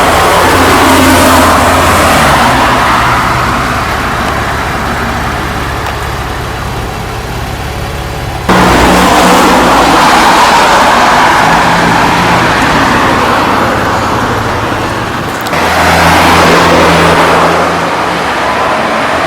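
Car engine and road noise, steady and loud, as of a car driving. The sound jumps abruptly about eight and a half seconds in, as at an edit, and swells again near the end.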